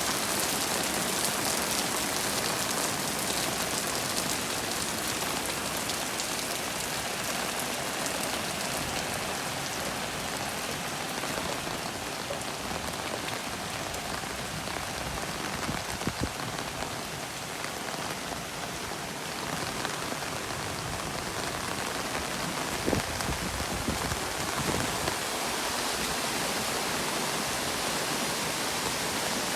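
Steady rain falling, an even hiss of drops, with a few sharper, louder taps about halfway through and again around two-thirds of the way in.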